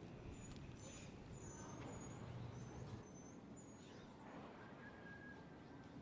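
Quiet outdoor park ambience with a small bird giving short, high chirps, repeated about eight times over the first few seconds, over a faint low background rumble.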